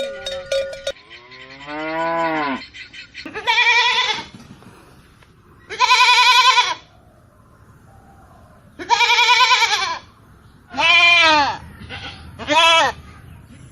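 A cowbell ringing stops about a second in, followed by a lower drawn-out animal call. Then come five separate bleats, each with a wavering pitch.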